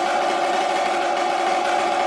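Snare drum played in a fast, even sustained roll, the drumhead's ring and the snare wires' rattle held steady throughout.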